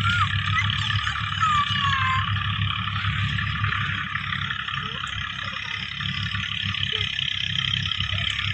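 A motor running steadily, a low drone with a higher hum above it, with a few short gliding calls in the first two seconds.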